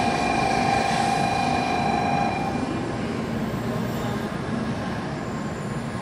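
JR West N700 series 7000 Shinkansen train rolling slowly along the platform as it pulls in to stop. A steady whine of several held tones over the rumble of the train stops about two seconds in, leaving a quieter rolling rumble.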